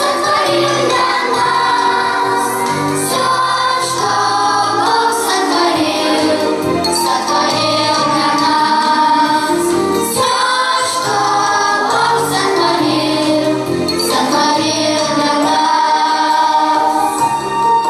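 A choir singing a song over instrumental accompaniment.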